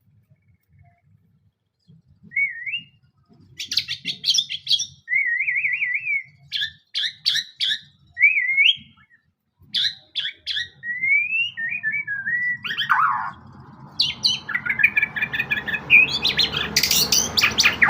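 White-rumped shama (murai batu) singing a varied song of whistled phrases, rising and falling glides, chirps and rapid trills. It starts after about two quiet seconds and becomes denser and more continuous in the last few seconds.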